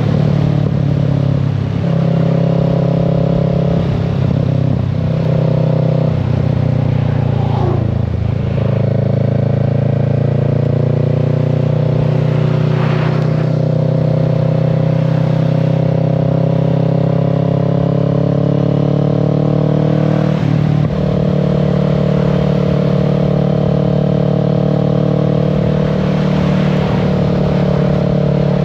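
Kawasaki Z650 parallel-twin engine running under way on the road, loud and steady. The engine note climbs slowly for about ten seconds from near the middle, with a few short breaks in the note in the first eight seconds and again about twenty seconds in.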